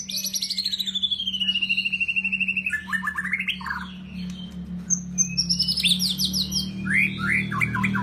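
White-rumped shama (murai batu) singing in fast trills of repeated notes: a long trill falling steadily in pitch over the first few seconds, then shorter bursts of quick notes, one high and falling about five seconds in and a lower rising series near the end. A steady low hum runs underneath.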